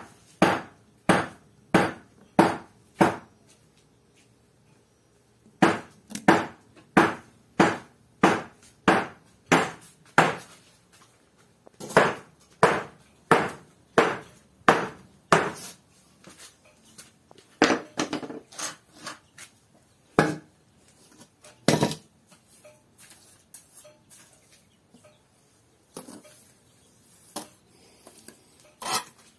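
Hammer blows, chipping the surface of a concrete floor rough so that bricks can be set on it. They come in runs of about two blows a second with short pauses, and grow sparser and more irregular in the second half.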